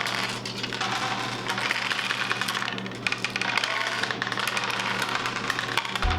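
Many dice clattering and rattling on a tabletop as several players roll over and over in a fast round of Tenzi, with background music under it; a heavy bass beat comes in at the very end.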